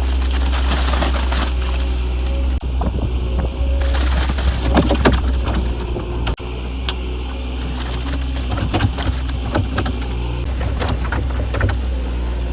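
Farm machinery engine running steadily, with repeated clunks and clatters from the machinery.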